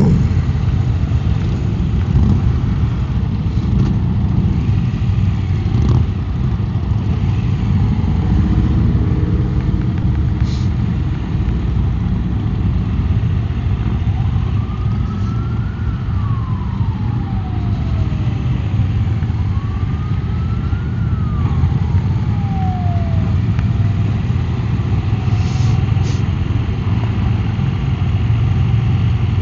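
2016 Triumph America's parallel-twin engine running steadily as the motorcycle rides along. Around the middle a siren rises and falls twice.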